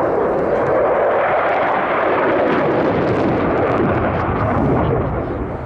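Saab JAS 39 Gripen jet fighter's engine, a loud jet roar whose pitch shifts and sweeps downward as the aircraft passes, easing slightly near the end.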